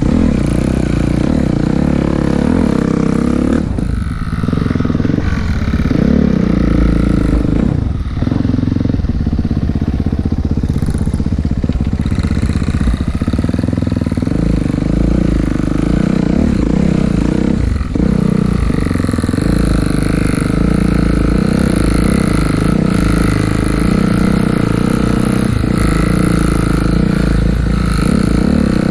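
Dirt bike engine running under way, with the throttle briefly let off a few times.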